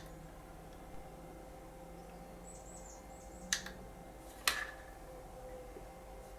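Two sharp clicks about a second apart over a faint steady hum, with a few faint, quick, high chirps shortly before them.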